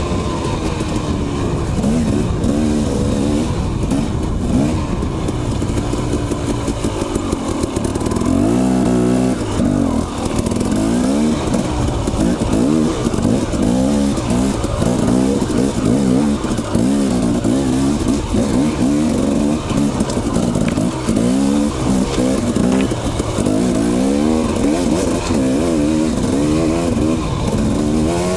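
Dirt bike engine running under way on a trail, its pitch rising and falling over and over as the throttle is opened and closed.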